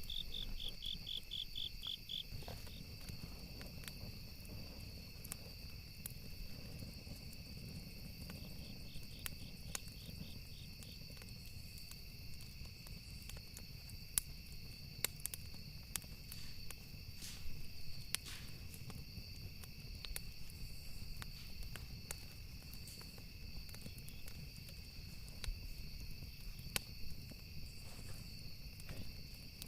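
Campfire ambience: wood crackling with scattered sharp pops over a low rumble of flames, while crickets chirr steadily. A pulsed cricket trill sounds briefly at the start and again about ten seconds in.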